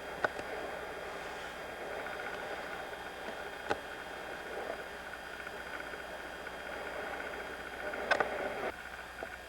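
Steady rush of water and wind as a sailboat moves through the waves, with a few sharp knocks: one near the start, one a little under four seconds in, and a short cluster about eight seconds in.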